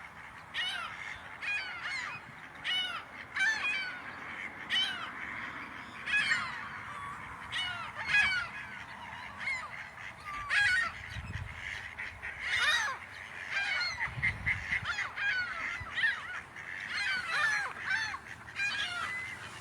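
A flock of waterbirds calling: many short calls, overlapping and repeated without a break. Twice in the middle, wind rumbles on the microphone.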